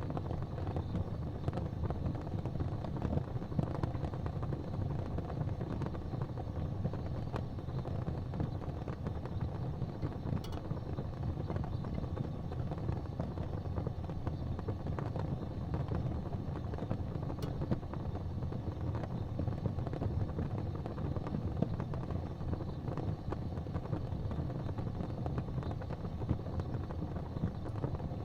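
Fire burning in a fireplace, a steady low rumble with a couple of faint crackles.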